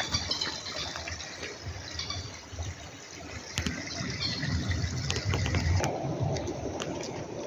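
Water running and gushing, with a stronger low rumble about two-thirds of the way through.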